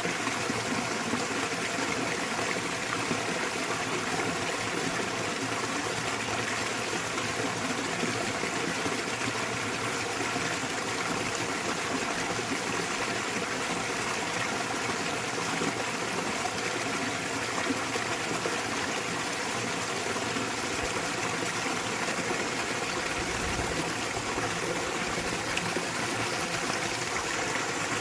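Small waterfall in a mountain stream: water falling and splashing in a steady, even rush.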